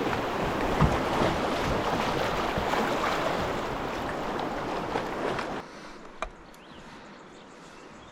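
Whitewater river water rushing around a kayak as a steady, loud hiss. It drops away suddenly about five and a half seconds in, leaving much quieter water with one sharp click.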